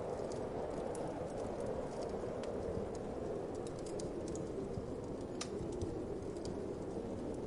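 Wood fire crackling with irregular sharp pops and ticks, over a steady low whoosh of wind.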